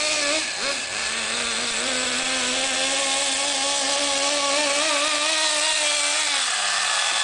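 Kyosho Blizzard's .18 two-stroke nitro engine running at high revs, the pitch wavering with the throttle, dipping briefly just after the start, then dropping to a lower, steady idle about six and a half seconds in.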